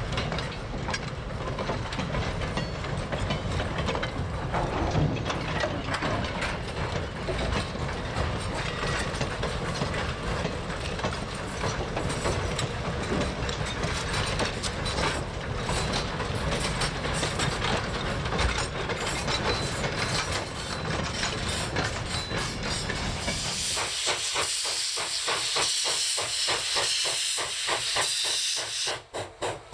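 Steam train running by with wheels clattering along the rails, then a loud, high steam hiss for about five seconds near the end.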